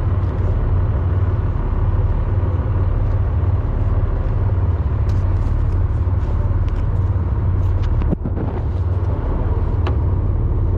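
Fishing boat's engine running with a steady, loud low drone, briefly dipping about eight seconds in.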